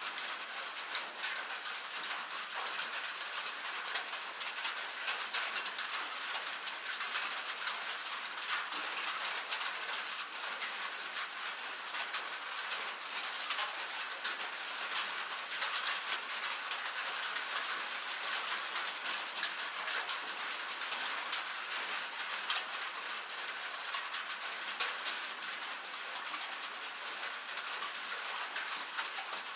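Steady rain on a metal roof: a dense, even patter of fine ticks from drops hitting the sheet metal, high and light with no low rumble.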